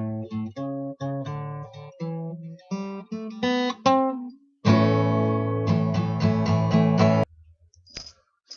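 Acoustic guitar music: picked notes, then strummed chords that stop suddenly about seven seconds in, followed by a couple of short, sharp percussive hits near the end.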